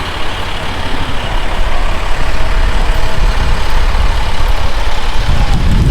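Strong wind buffeting the microphone: a heavy, fluttering low rumble that grows stronger about a second in and again near the end.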